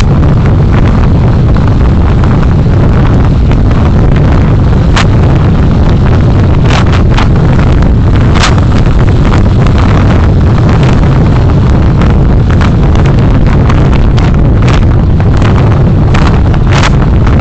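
Loud, steady rumble of wind and road noise picked up by a moving vehicle's dashcam microphone, with a few sharp clicks or knocks scattered through it.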